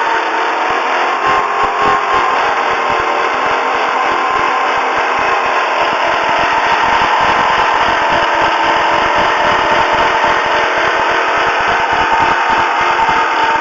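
1999 Volvo S80's 2.9-litre straight-six engine running steadily with a continuous whining tone over the engine sound. The owner hears this weird noise only at about 1500–2000 rpm, and it goes away above 2000 rpm.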